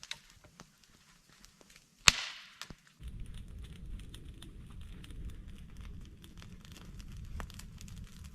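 A single sharp crack about two seconds in, then a burning wood fire crackling and snapping over a steady low rumble.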